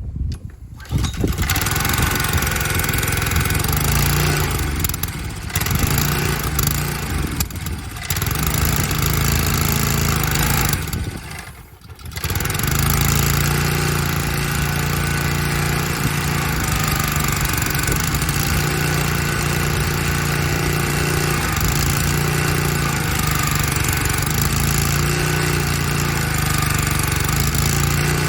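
Honda engine on a Kärcher pressure washer catching after a pull start about a second in, then running unevenly with several sags, nearly dying around twelve seconds in before picking back up and running steadily. The uneven running is something the owner suspects is a carburettor issue.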